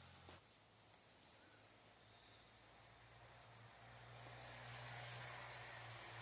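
Faint insect chirping: a thin, high trill that comes in pulses, over quiet rural background with a low steady hum.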